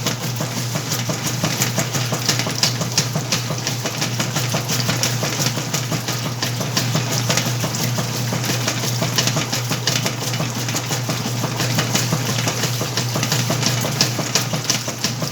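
Whirlpool washing machine running its wash cycle: a steady low motor hum under dense, irregular sloshing of water and clothes.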